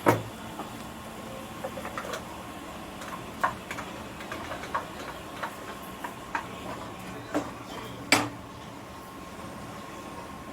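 Kitchen handling sounds: a sharp click at the start and a louder knock about eight seconds in, with scattered light ticks and taps between, over a faint steady hum.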